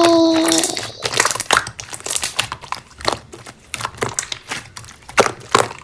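Slime being squeezed and worked by hand, giving irregular crackling and popping clicks, several a second.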